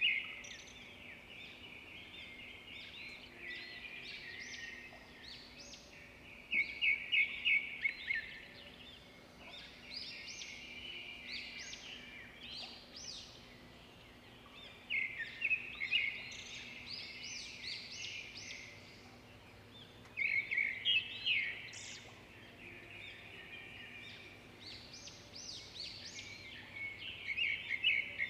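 Songbirds singing among trees, with a loud phrase of rapid repeated notes every few seconds over a steady background of quieter song.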